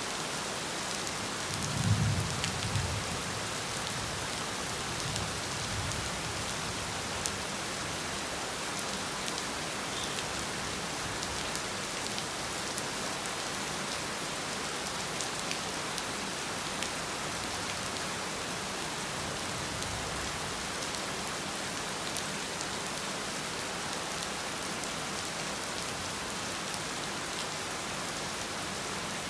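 Heavy rain pouring steadily, with fine drop ticks throughout. About two seconds in a low rumble of thunder swells up and dies away over a few seconds, with fainter rumbles following.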